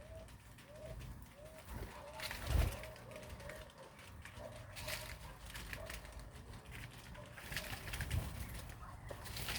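A dove cooing: a quick run of short repeated notes, about two a second, that fades after about four seconds. A dull thump about two and a half seconds in.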